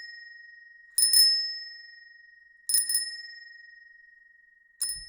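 A small bell rung with a quick double ding three times, each ring holding one clear note and fading slowly; the last pair is cut off short near the end.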